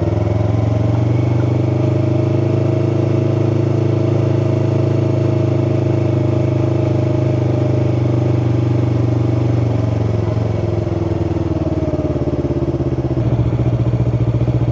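Yamaha R3's parallel-twin engine running under load at steady, fairly high revs in a low gear, the upshift held off, which the rider worries is straining the engine. About ten seconds in the revs drop briefly, then climb again near the end.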